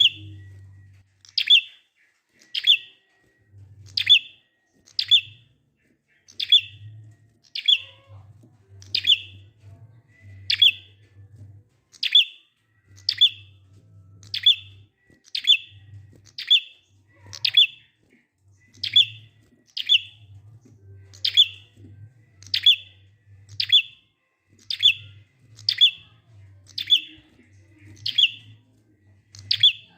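Prinia (prenjak) calling in a long, steady series of short, sharp notes that slide down in pitch, a little more than one a second.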